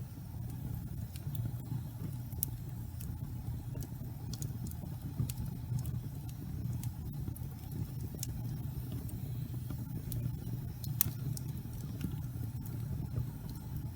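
Wood fire burning in a fireplace: a steady low rumble from the flames, with irregular sharp crackles and pops from the burning logs. One pop, about three-quarters of the way through, is louder than the rest.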